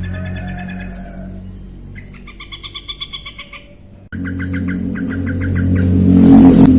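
Yellow-vented bulbul (trucukan) singing in full voice: several phrases of rapid, evenly repeated chirps over a steady low hum. A brief rushing noise near the end is the loudest moment.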